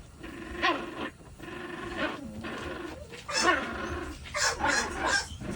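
An American Bully dog making several short, pitched vocal bouts, one after another with brief pauses between.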